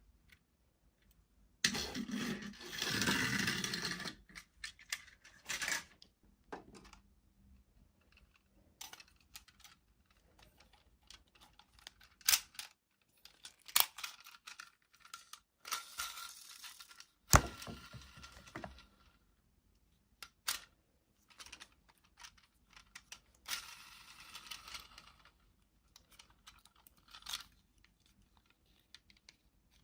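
Toy packaging being handled and opened: a loud tearing noise of about two seconds shortly after the start, then scattered sharp clicks and shorter rustling bursts of plastic and cardboard.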